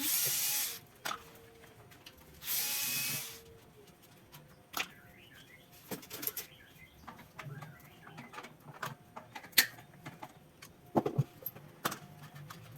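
Two short runs of a small power tool with a whirring, drill-like sound, one at the start and one about two and a half seconds in, each under a second long, followed by scattered clicks and knocks of parts being handled.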